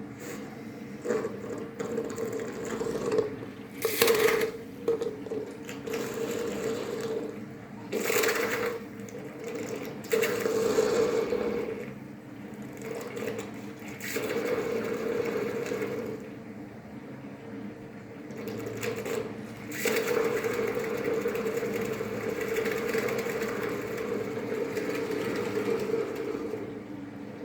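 Raw spirit, diluted to 30% alcohol, boiling explosively in a distilling still's boiler: irregular surging bouts of violent boiling, with sharp bursts about 4, 8 and 20 seconds in. The cause of the explosive boiling is unclear to the distiller.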